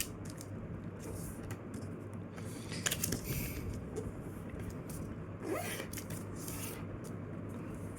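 A sheet of paper being folded and creased by hand, with a few brief crinkling, scraping rubs over a steady low hum.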